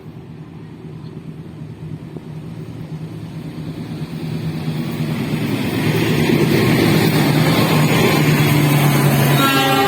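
Diesel locomotive approaching on the track, its engine growing steadily louder for about six seconds and then holding loud. Near the end a chord of higher pitched tones starts up over the engine.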